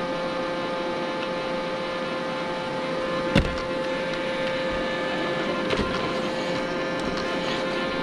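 Robot vacuum cleaner running, a steady motor hum and whine, with one sharp knock about three seconds in and a couple of lighter knocks near six seconds.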